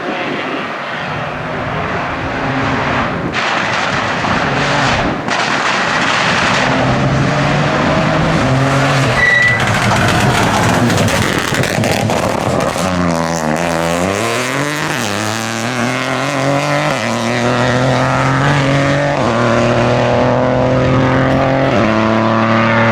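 Rally car engine driven hard on a stage, its pitch jumping up and down in steps as it changes gear, with tyres skidding.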